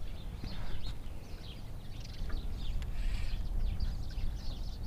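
Birds chirping, with many short quick calls overlapping, over a steady low rumble.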